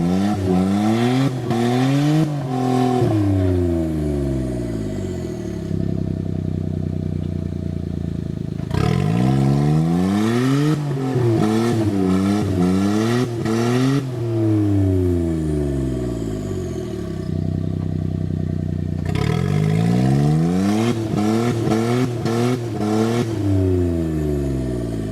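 Suzuki Jimny JA11's engine revving up and down repeatedly under off-road load. It comes in three bouts, the pitch climbing and falling several times in each, and settles to a steadier, lower running in the pauses between.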